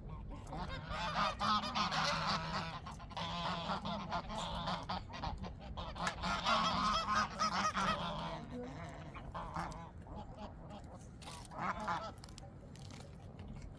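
Poultry calling: a dense run of overlapping calls for about eight seconds, then only a few scattered sounds.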